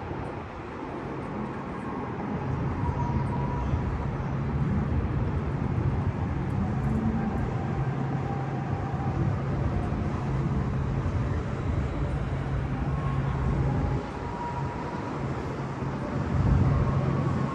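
Steady low rumble of city traffic and engines, building over the first couple of seconds, with a brief drop about fourteen seconds in and a louder swell near the end.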